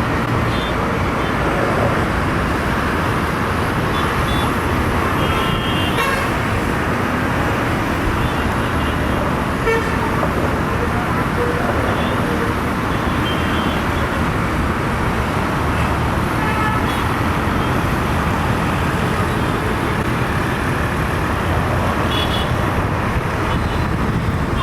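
Steady road traffic with a few brief vehicle horn toots.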